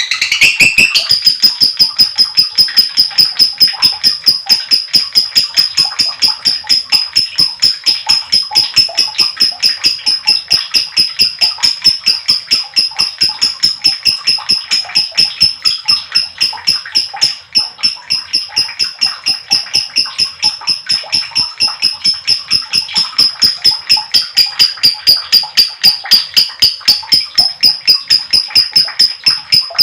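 Lovebird in a long ngekek chatter: a fast, even string of shrill chirps, several a second, held without a break. This unbroken long trill is the 'ngekek panjang' that keepers prize in a competition lovebird.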